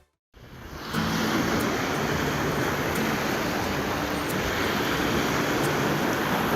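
Steady rush of ocean waves and wind, fading in after a brief silence at the start.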